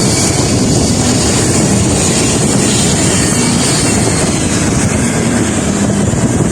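Aircraft engine noise, a loud steady rushing rumble.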